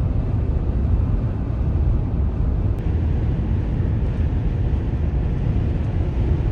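Steady low rumble of a minivan's road and engine noise, heard inside the moving van.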